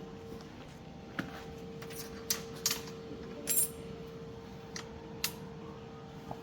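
Small metal parts and hand tools clinking: about six sharp, separate metallic taps over a few seconds, a couple of them ringing briefly, over a steady faint hum.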